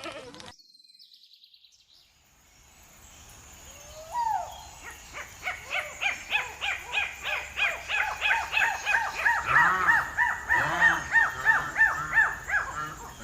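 A bird calling: a fast series of short, repeated chirping notes, about four a second, that starts after a single rising note and runs for several seconds.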